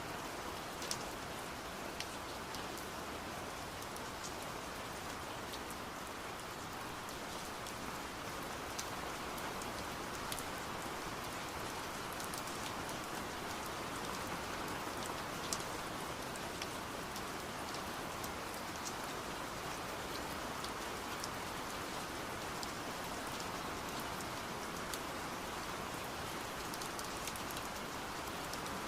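Steady rain heard through a window, with scattered sharp taps of drops hitting the glass.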